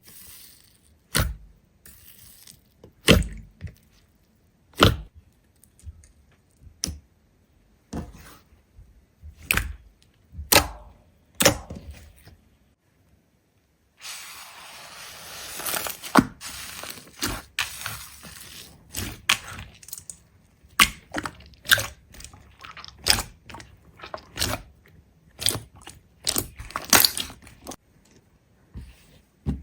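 Sharp cracks and crunches of something being broken or crushed, one every second or two, then after a brief pause denser crunching over a steady hiss.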